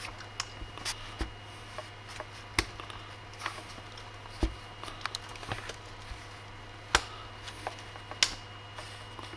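Irregular sharp clicks and light knocks from hands and tools working at a 3D printer while filament is purged through a clogged nozzle, over a steady low hum.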